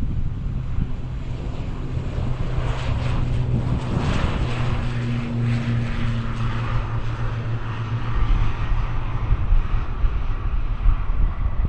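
Airliner's engines passing overhead on takeoff: a rushing roar over a low steady hum that swells to its loudest about four to six seconds in, then eases off.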